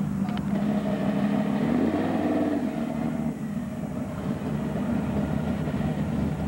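Car engines running as cars roll past at low speed. About two seconds in, one engine's pitch rises briefly and then settles back.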